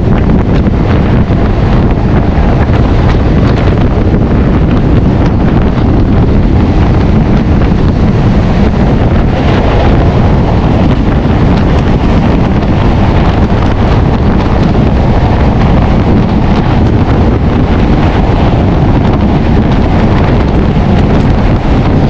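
Loud, steady wind buffeting the microphone over the running noise of a moving MEMU passenger train.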